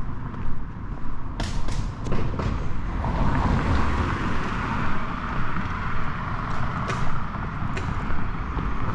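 City street traffic: a steady rumble of vehicles with a car passing, its tyre noise swelling a few seconds in. A few sharp clicks or knocks sound about a second and a half in and again near the end.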